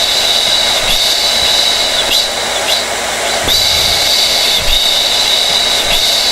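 Hair dryer running steadily: a loud rush of blown air with a high whine that wavers and briefly dips now and then.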